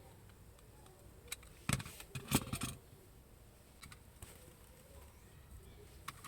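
Small hard objects being handled on a work surface: a few sharp clicks and a short burst of clatter about two seconds in.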